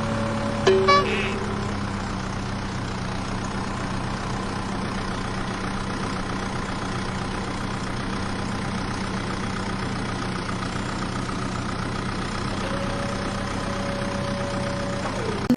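Steady engine idling sound, a low even hum that does not rise or fall. Just under a second in there is a click and a short tone that drops in pitch, and a held higher tone returns near the end.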